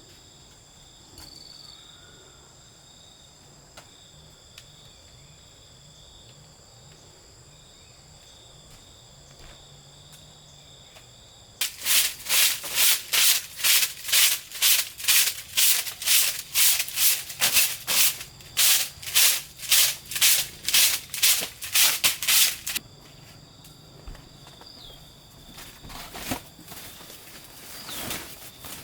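Steady insect trilling, then about halfway in some eleven seconds of loud, rhythmic rasping strokes, about two a second, from a hand tool working a surface, before the insects are heard alone again.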